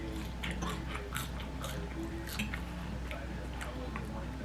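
Close-miked chewing and biting: a run of short wet mouth clicks and smacks from someone eating.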